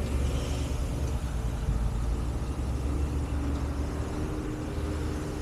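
Heavy truck engine idling steadily, a low rumble.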